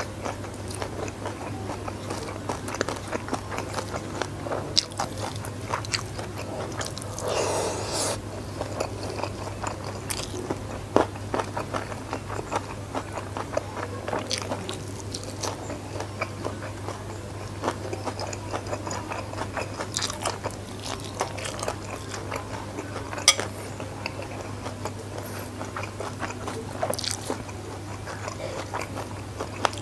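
Close-miked eating by hand: chewing mouthfuls of rice, corn fritter and salted fish with raw winged beans, with many short crunchy bites and wet chewing. A steady low hum runs underneath.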